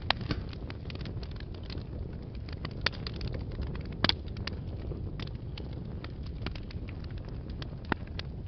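Wood fire burning in a fireplace: a steady low rumble with frequent small crackles and a few louder pops, the loudest about four seconds in.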